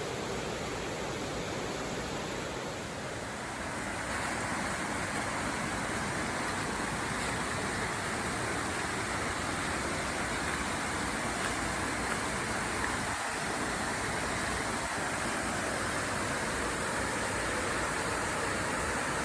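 Waterfall rushing: a steady wash of falling water that grows louder about three and a half seconds in.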